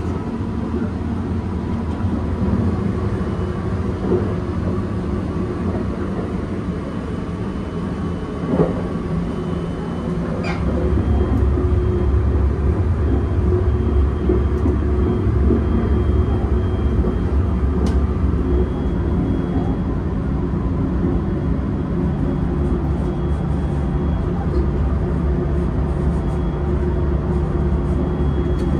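Steady low rumble of the Sunrise Express sleeper train's 285 series cars running, heard from inside the small shower room, with a few faint knocks. The rumble grows louder about ten seconds in.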